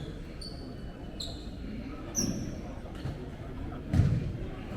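Basketball shoes squeaking on the court floor several times in short high chirps, with a basketball bouncing in low thuds; the heaviest thud comes about four seconds in.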